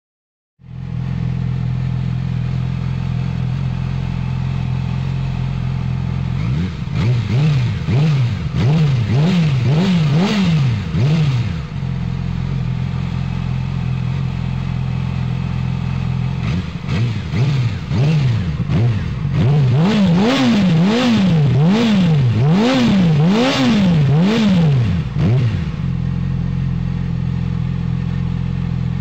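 Yamaha YZF-R6's 600 cc inline-four sport-bike engine idling through its exhaust, then blipped up and down in quick revs several times in a row, back to idle, and then given a second, longer run of quick throttle blips before settling to idle again.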